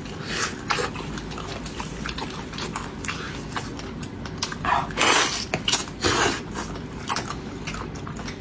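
Close-up eating sounds of someone gnawing and chewing pork spare ribs: scattered wet clicks, with two louder, longer mouth sounds about five and six seconds in.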